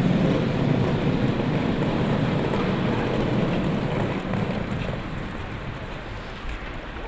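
A vehicle's steady low rumble and noise that fades gradually over the seconds.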